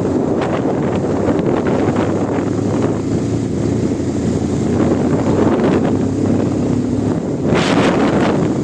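Strong wind buffeting the microphone in a steady low rumble, with a sharper gust of hiss near the end.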